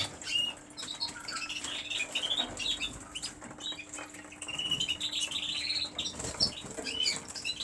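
Caged canaries chirping, with quick wing flutters and small clicks as they move about.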